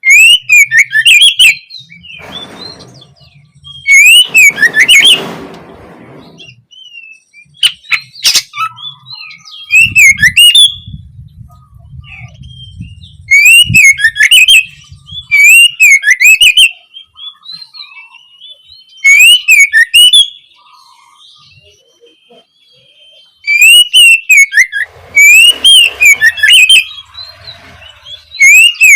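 Oriental magpie-robin (kacer) singing loud, repeated phrases: slurred up-and-down whistles mixed with rapid high chattering notes, delivered in bursts of a second or two with short pauses between them.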